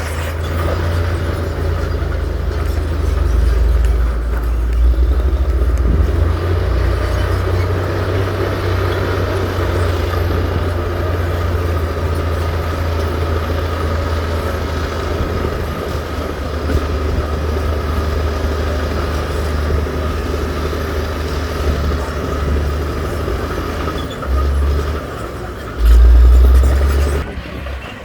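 Heavy diesel earthmoving machinery running steadily with a low rumble. Near the end it swells louder twice, the second time the loudest.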